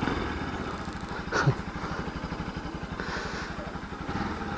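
Motorcycle engine running steadily, with an even train of low firing pulses. The rider is puzzled by a sound from it and wonders whether it comes from the bike going largely unridden through the lockdown.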